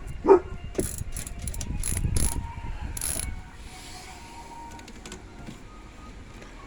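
Prototype foot-powered washing machine being pedalled: its drive mechanism clacks and rattles with sharp clicks and knocks, loudest for the first three seconds or so, then settles to a quieter steady run.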